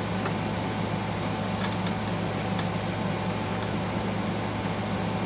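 Steady background hum of a running appliance such as a fan, with a few faint light metallic ticks as a small screw is handled and put back into the sewing machine.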